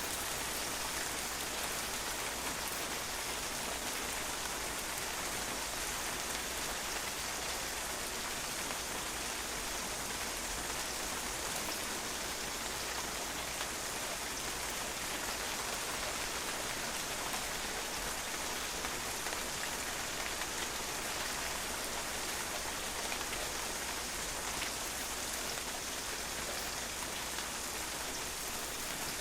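Steady rain falling, the drops pattering on a patio in an even, unbroken hiss.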